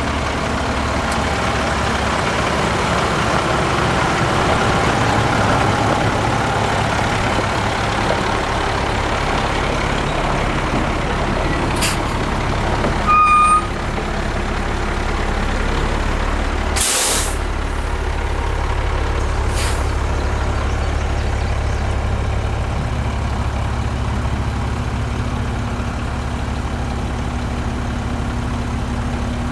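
International 7400 truck's DT 530 inline-six turbodiesel running steadily at idle. About halfway there is a short, loud beep, and a few seconds later a brief burst of hissing air.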